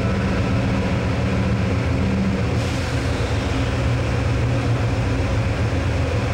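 Amtrak passenger train running, a steady heavy rumble heard from inside the car. A low hum stops about two and a half seconds in, and the hiss above it grows a little brighter.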